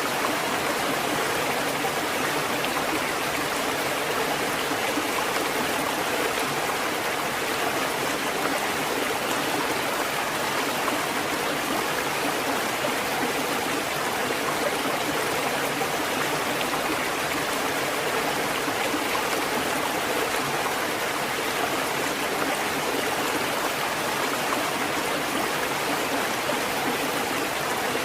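Water running and splashing in a steady, unbroken rush.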